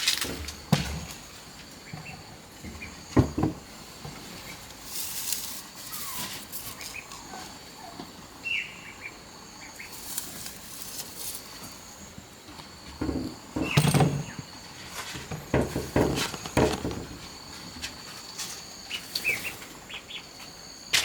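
Small birds chirping in short calls over a steady high insect drone, with scattered knocks and rustles from handwork, a cluster of them in the second half.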